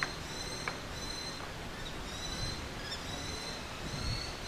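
A songbird singing a run of short, high, steady whistled notes, over a low outdoor background hum. A couple of light clicks come in the first second.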